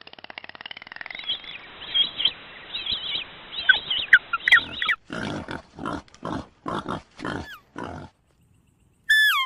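Animal calls: about five seconds of high-pitched squealing and chattering, then a run of about six short repeated calls, and a brief high falling call near the end.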